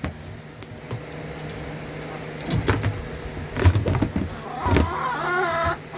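Electric fan running with a steady low hum. A few knocks and rustles come in the middle, and a short pitched, voice-like sound comes near the end.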